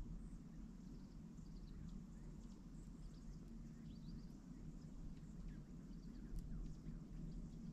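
Faint, scattered chirps of small songbirds over a steady low rumble.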